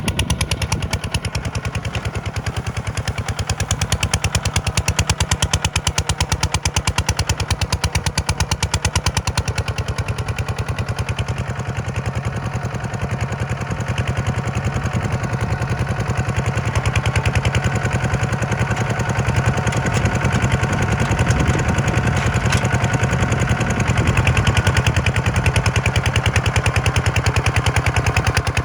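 A tractor's diesel engine running, a rapid, steady chugging of exhaust pulses that grows somewhat louder in the second half.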